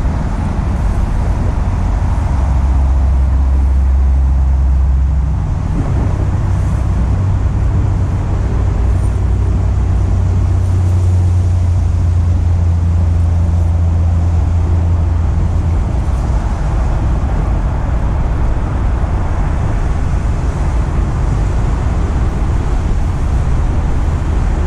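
An engine running steadily, its low hum changing pitch twice as the revs shift, over a constant hiss.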